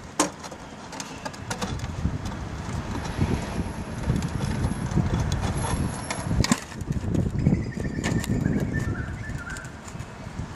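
A bird gives a few short calls about three-quarters of the way through, faint over a steady low rumble with scattered knocks and clicks.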